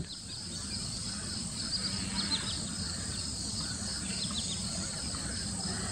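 Outdoor ambience dominated by a steady high-pitched insect chorus, crickets or cicadas, with a few short bird chirps about two seconds in and again near four seconds, over a faint low hum.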